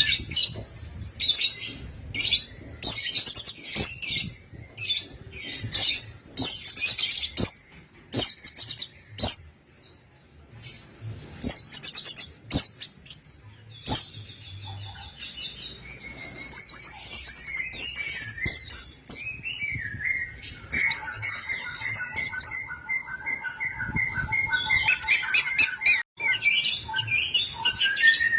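Orange-headed thrush (anis merah) singing: quick, high trilled phrases with short pauses between them. In the second half the song becomes fuller and more continuous, with lower held whistled notes added.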